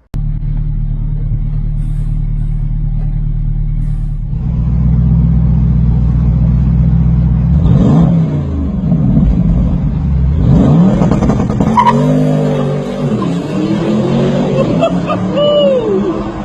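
2017 Porsche Panamera Turbo's twin-turbo V8 exhaust, cutting in suddenly with a steady low drone, growing louder about four seconds in, then revving up and down several times through the second half.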